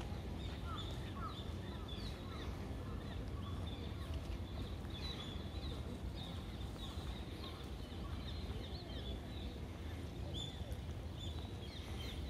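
Small birds in the trees chirping and calling over and over, with short high chirps coming several times a second throughout, over a steady low rumble.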